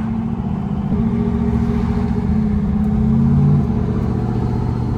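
Station wagon's engine and road noise heard from inside the cabin while driving, the engine note rising and swelling about three seconds in, then dropping back.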